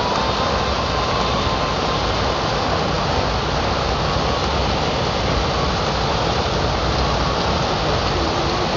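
Rain falling steadily in a thunderstorm: an even hiss, with a low rumble underneath.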